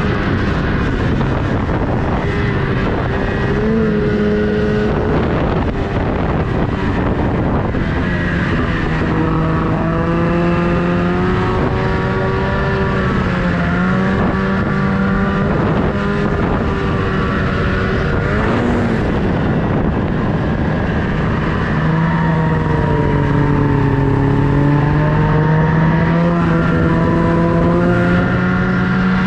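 Snowmobile engine running under changing throttle, its pitch rising and falling again and again, with a steady rush of noise underneath.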